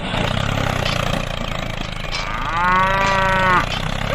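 A small engine runs steadily at a low idle. About two seconds in comes one long, level, moo-like call lasting about a second and a half, louder than the engine.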